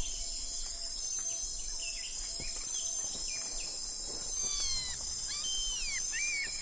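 Natural outdoor ambience: steady high-pitched insect chirring with short bird calls over it, including several quick falling whistles in the second half. The lizard itself makes no audible sound.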